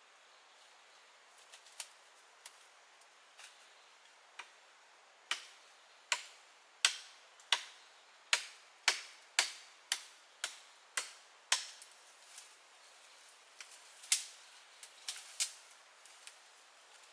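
A run of sharp knocks, a few scattered at first, then a steady series of about one or two a second, then a few more scattered ones near the end.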